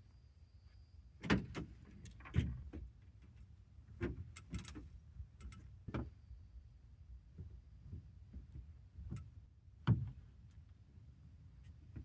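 Scattered knocks and clunks of gear being handled, about six spread over the stretch, the loudest near the end, over a low steady rumble.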